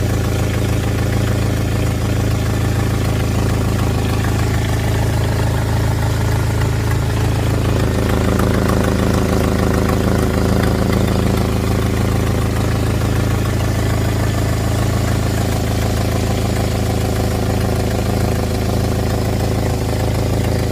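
Jeep engine idling steadily with an exhaust leak. Its note fills out slightly about eight seconds in.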